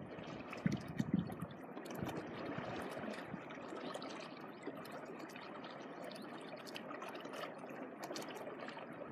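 Small waves lapping and washing on the shore, a steady watery wash with a few soft low bumps about a second in.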